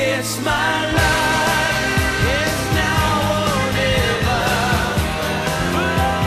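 Rock song with a male singer holding long, wavering notes over electric guitar and a steady drum beat.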